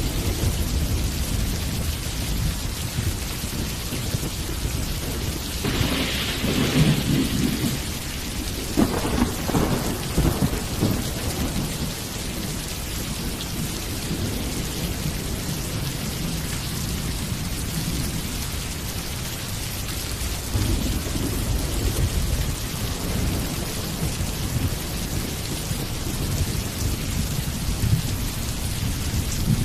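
Steady rain with thunder rumbling low underneath; the thunder swells into a louder peal between about six and eleven seconds in.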